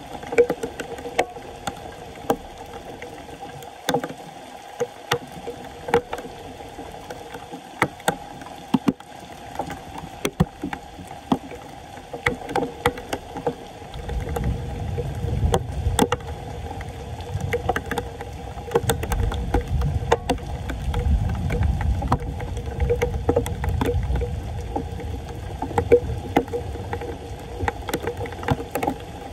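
Floodwater sloshing and splashing while a clogged street drain is being cleared, with frequent small knocks and clicks throughout and a steady hum underneath. About halfway through a low rushing comes in and continues.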